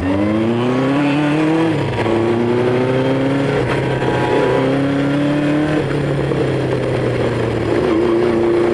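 Honda CB500 Four's air-cooled inline-four engine pulling away under throttle: its pitch climbs and drops back a few times as it shifts up, then holds steady near the end.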